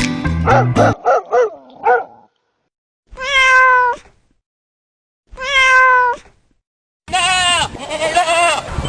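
Two cat meows, each about a second long with a gap of silence between them. Just before them, music ends and a few short pitched calls are heard. About seven seconds in, a louder, wavering pitched sound begins.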